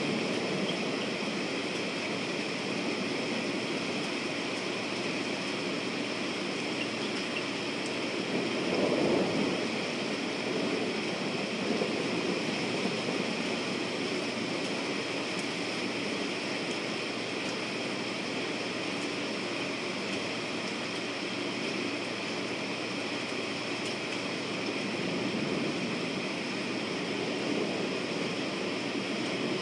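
Steady rain falling, an even hiss, with a brief louder swell about nine seconds in.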